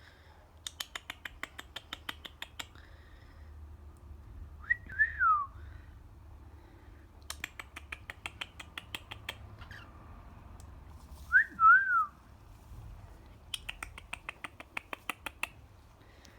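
A young female cockatiel making runs of rapid clicks, about ten a second for two seconds at a time, three times. After each of the first two runs comes a short wavering whistle that rises and then falls. The owner takes these sounds for the bird trying to talk.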